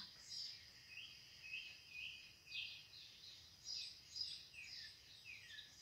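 Faint birdsong: quick runs of short chirps and several downward-sliding high notes.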